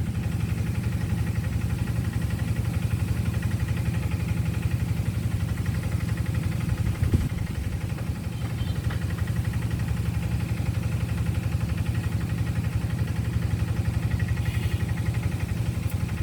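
An engine idling steadily, a low even hum with a fast regular pulse.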